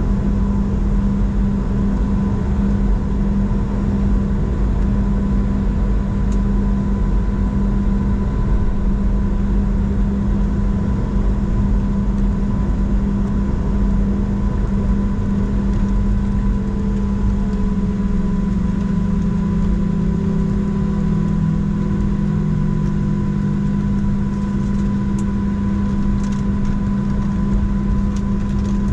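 Boeing 737-700's CFM56 jet engines idling while the aircraft is on the ground before takeoff: a steady, loud hum with a fixed whine, one tone sliding slightly lower about two-thirds of the way through.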